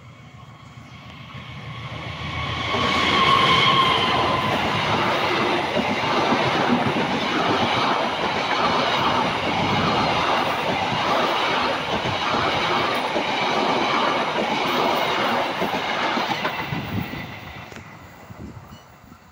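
Passenger train hauled by a diesel-electric locomotive passing close by. The locomotive's engine grows louder over the first few seconds, then the coaches' wheels clatter over the rail joints in a steady rhythm for about twelve seconds. Near the end the sound fades as the train moves away.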